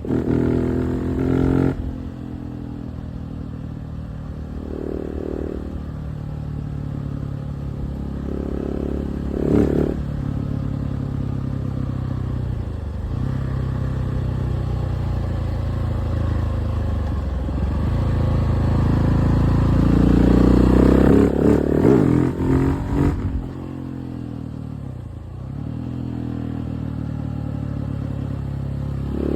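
KTM 690 SMC R's single-cylinder engine being ridden, the revs rising and falling as the throttle is opened and closed. A drop comes about two seconds in, and the loudest hard acceleration comes about twenty seconds in.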